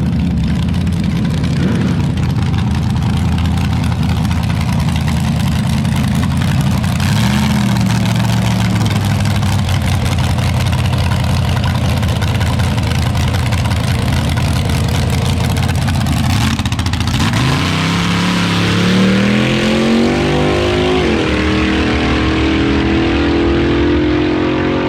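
A vehicle engine running steadily at a low pitch. About two-thirds of the way through it speeds up with a rising pitch, drops back briefly as if changing gear, then rises again.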